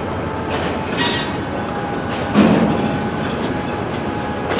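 Freight cars rolling through a rail yard, wheels clacking on the rails. There is a short metallic ringing squeal about a second in and a heavier knock about two and a half seconds in.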